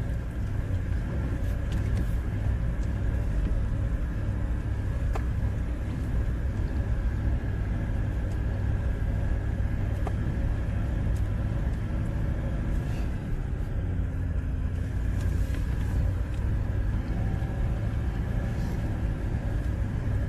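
Four-wheel-drive vehicle climbing a steep, rough track: a steady low engine and driving rumble, with a few short knocks scattered through.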